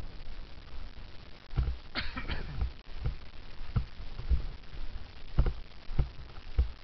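Wind rumbling on a helmet-mounted camera's microphone as a bicycle coasts downhill, with irregular knocks and rattles, a short cluster of them about two seconds in.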